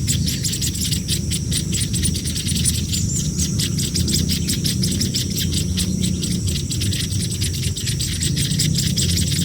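Hungry nestling birds begging with rapid, continuous high-pitched chirping, over a steady low rumble.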